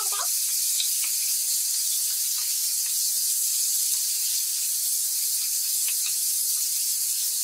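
Diced chicken and onion sizzling steadily in oil in a frying pan, with a few faint scrapes of a wooden spoon stirring them.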